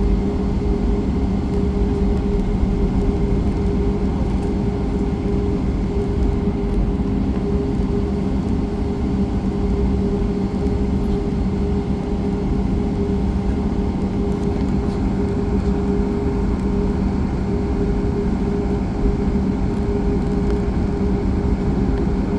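Steady cabin noise inside a Boeing 737-8 MAX after landing: an even rushing hum with two steady low tones running through it.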